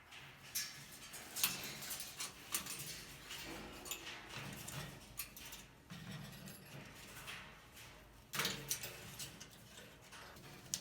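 Cape parrot's beak biting and gnawing at a wooden foraging box: irregular sharp clicks and scraping crunches of wood, with a louder cluster about three-quarters of the way through.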